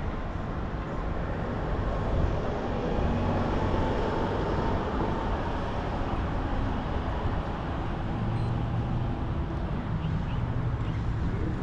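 Steady road traffic noise with a constant rush, swelling a little a couple of seconds in as vehicles pass.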